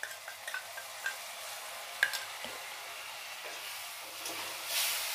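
Ginger, garlic and green chilli paste sizzling as it hits hot oil and fried onions in a steel kadai, with a metal spoon scraping and tapping against the pan as it is stirred in. The sizzle grows louder near the end.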